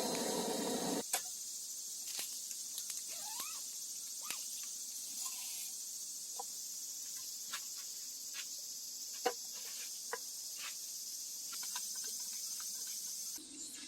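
Crickets and other night insects trilling steadily and high-pitched, with scattered sharp clicks and a few short chirps. A louder, fuller sound cuts off abruptly about a second in.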